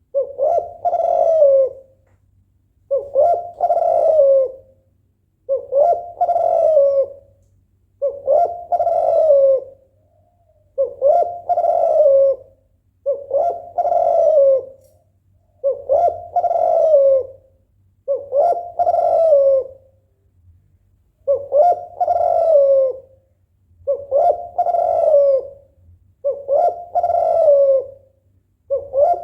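Spotted dove (tekukur) cooing, a female in breeding condition calling for a male. Each phrase starts with a short note and runs into a longer coo, and the phrase repeats steadily about every two and a half seconds.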